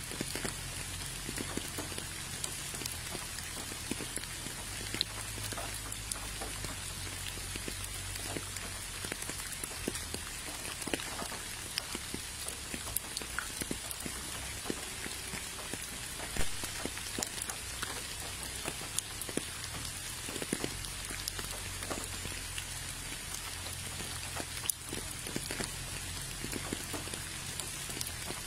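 Steady rain: an even hiss with many single drops landing close by as scattered sharp ticks, over a faint low rumble.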